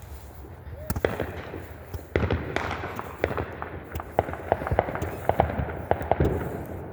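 Fireworks going off: a run of sharp, irregular bangs and crackling pops, with a loud bang about a second in and a denser spell of cracks from about two seconds in.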